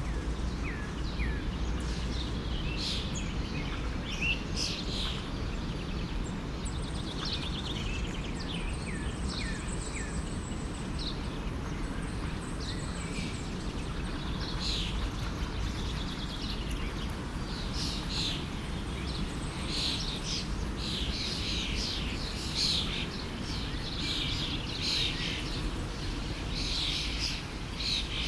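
Many small birds chirping in short, quick notes, busier in the second half, over the steady rush of a forest stream.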